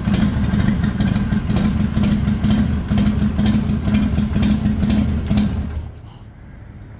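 Harley-Davidson Sportster XL883L's air-cooled V-twin idling steadily, then shut off about six seconds in.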